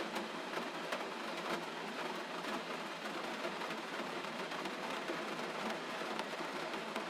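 Steady gentle rain, an even hiss with many small drop ticks scattered through it.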